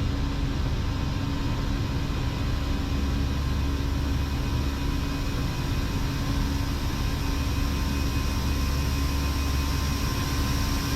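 Steady Airbus A319 flight-deck noise in the climb: a constant rush of airflow and jet engine drone, with a couple of faint steady hums.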